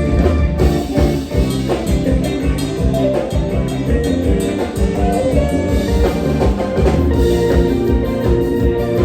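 Live Isan mor lam band music in toei style: drum kit and electric bass keeping a steady dance beat under bright melodic instruments.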